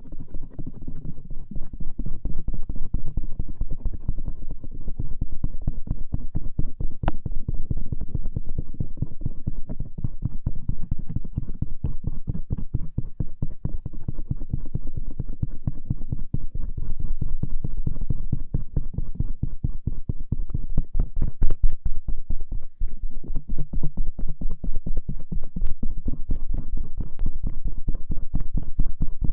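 Stainless-steel ear pick scraping and rubbing over the outer ear (auricle) in rapid, continuous strokes, a dull, close-up scratching sound.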